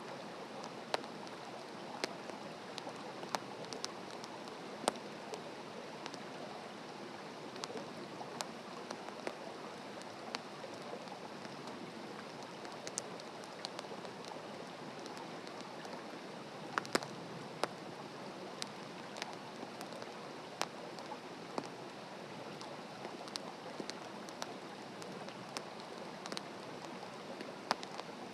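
Wood fire burning in a campfire stand: a steady hiss with irregular sharp crackles and pops.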